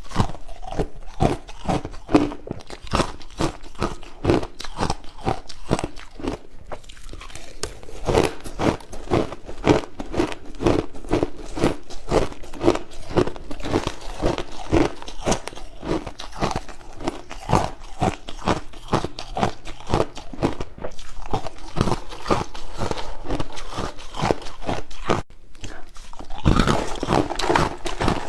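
Crushed ice being bitten and chewed close to the microphone: a quick run of loud, crisp crunches, one after another.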